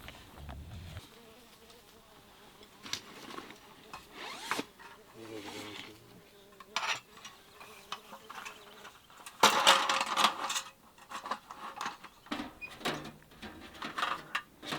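A flying insect buzzing near the microphone, its faint wavering drone coming and going, amid scattered light clicks and rustles, with a loud noisy rush about ten seconds in.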